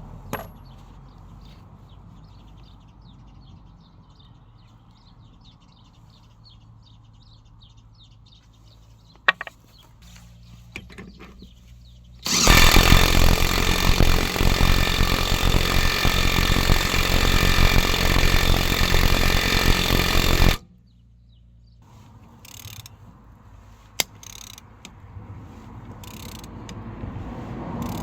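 A power tool runs loud and steady for about eight seconds, starting and cutting off abruptly, with scattered tool clicks before and after.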